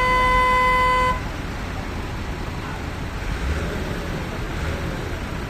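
A vehicle horn held on one steady note, cutting off abruptly about a second in, followed by a steady low engine rumble.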